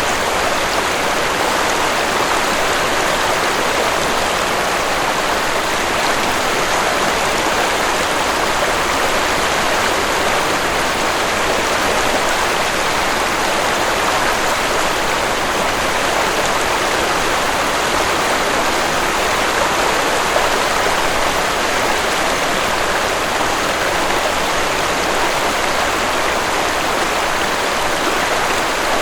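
Waterfall with water rushing in a steady, even roar that does not change.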